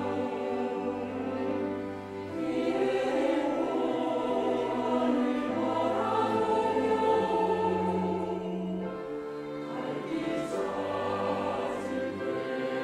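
Church choir singing a sacred anthem in parts over a low accompaniment, with sustained chords that change every second or two.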